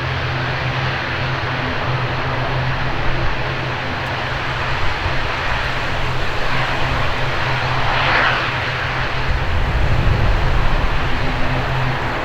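ATR 72-600 twin turboprop landing: a steady low propeller drone with engine rush, swelling to a louder rush about eight seconds in. Strong wind rumbles on the microphone.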